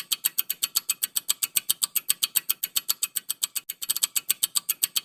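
Countdown-timer sound effect: a fast, steady ticking of about eight ticks a second.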